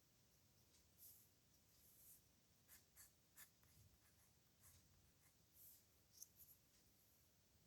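Pen scratching on paper in faint, short strokes, some in quick runs: handwriting at real speed.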